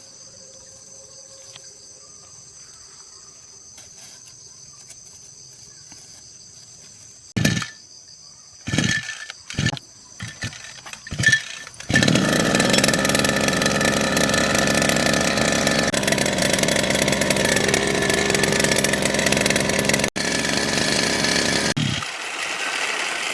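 Crickets chirping steadily, then the small petrol engine of a restored mower firing in several short bursts as it is started, catching at about the halfway point and running steadily for about ten seconds. Near the end the engine sound turns thinner and quieter.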